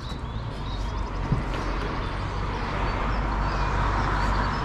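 Steady outdoor rushing noise that swells over the first few seconds, with a single sharp knock about a second in and faint bird chirps.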